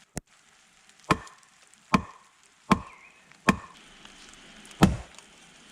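Hand tool chopping into wood: five sharp blows a little under a second apart, the last after a slightly longer pause.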